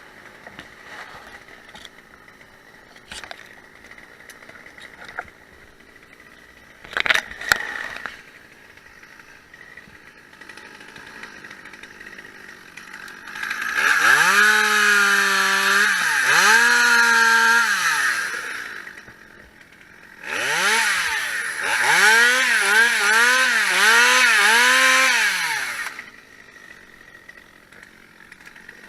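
Chainsaw running at high revs in two bursts of several seconds. The first sags in speed partway through and picks up again. The second rises and falls rapidly several times. A few sharp knocks come before the first burst.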